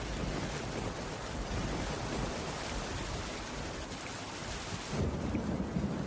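Steady rain hissing over a low rumble. About five seconds in, the high hiss of the rain drops away abruptly and the low rumble carries on.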